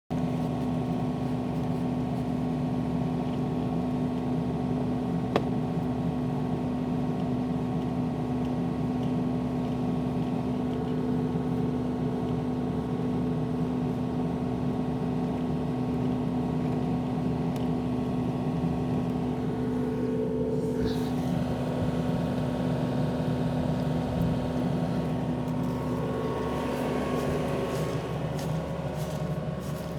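Diesel engine of a Yanmar machine running at a steady speed, with a shift in its tone about twenty seconds in.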